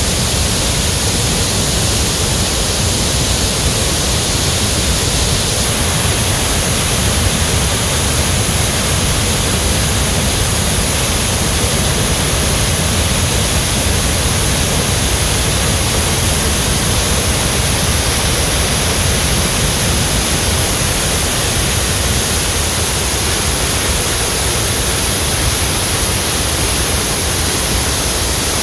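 Tännforsen waterfall: a large waterfall's falling water making a loud, steady rush.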